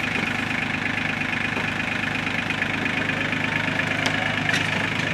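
Diesel engine of a Challenger MT275 tractor running steadily while it pulls on the fort. A couple of faint ticks come about four seconds in.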